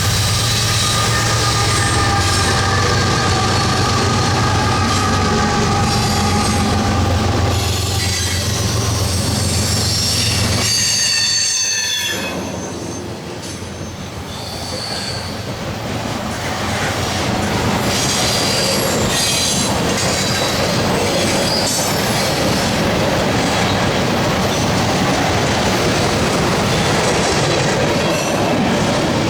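Freight train passing close by: a diesel locomotive's engine hums for about the first ten seconds, then a string of loaded freight cars rolls by with wheels squealing and clattering on the rails.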